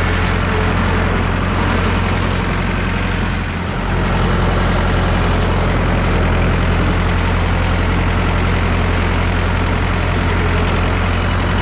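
Massey Ferguson 3165 backhoe tractor's diesel engine running steadily, with a brief dip in loudness about three and a half seconds in.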